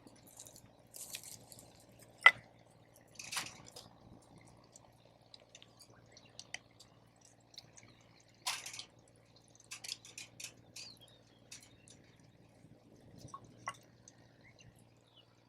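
Wood campfire crackling: scattered snaps and short hisses, with one sharp pop about two seconds in.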